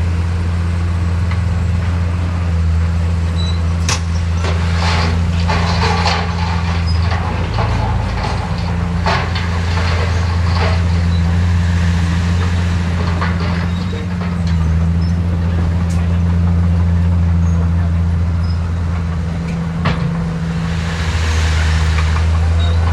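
Heavy construction machine's diesel engine running with a steady low drone. Clattering knocks come from about four to eleven seconds in, and there is a brief hiss near the end.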